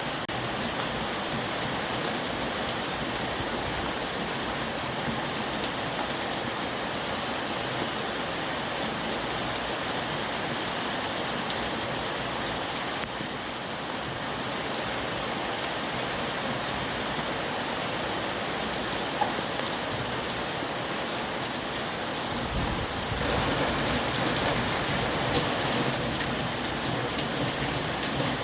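Heavy rain falling steadily in a dense, even hiss. About three-quarters of the way through it grows a little louder and a low rumble comes in underneath.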